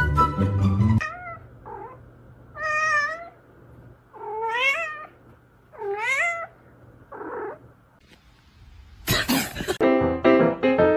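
A cat meowing about six times, several long drawn-out meows that rise and fall in pitch, after music cuts off about a second in. Near the end comes a short loud burst of noise, then piano music starts.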